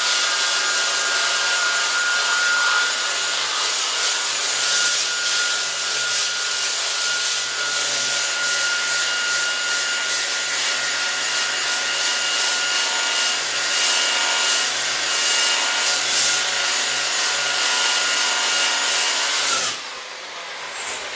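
Power tool fitted with a sanding disc running steadily, with a motor whine under the harsh scratching of the disc stripping old paint and rust off the mower's steel. Near the end it switches off and the whine falls away.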